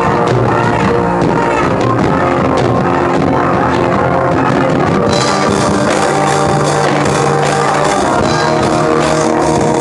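Church band playing loud, rock-style gospel music without singing, with drums and electric guitar; cymbals come in about halfway through.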